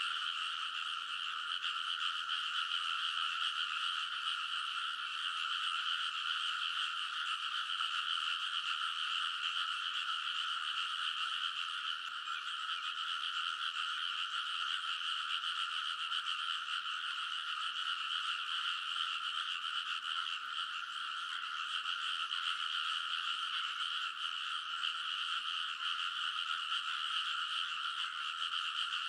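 A large chorus of frogs calling all at once, a dense, steady din in which no single call stands out.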